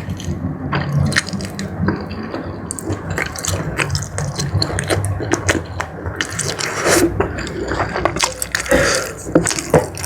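Close-miked wet chewing and mouth smacking while eating jumbo squid in a thick spicy sauce, a dense run of irregular sticky clicks and slurps.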